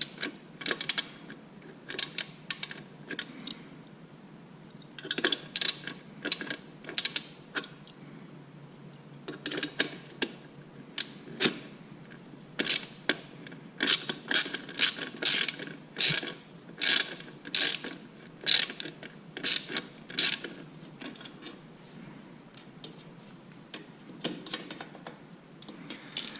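Hand ratchet wrench clicking in several bursts of sharp clicks as bolts are turned and tightened, going quiet a few seconds before the end.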